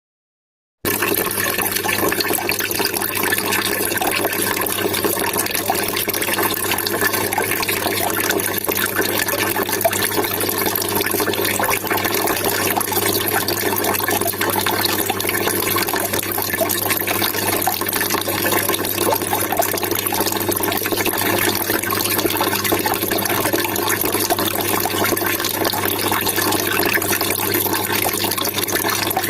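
Water trickling and splashing steadily, cutting in suddenly about a second in.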